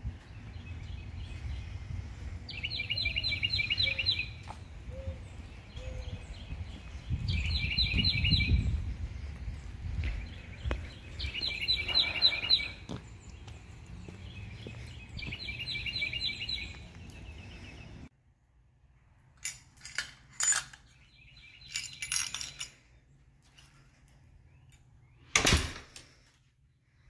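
Outdoor ambience with a low rumble, and a songbird singing a short phrase of rapid repeated notes, about every three to four seconds. About two-thirds of the way through, this cuts off suddenly to a quiet room with a few scattered clicks and knocks, one louder knock near the end.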